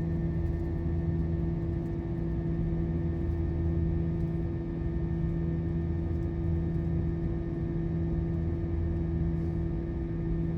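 Steady cabin drone of an Airbus A321 in flight: a low rumble with a constant hum running underneath.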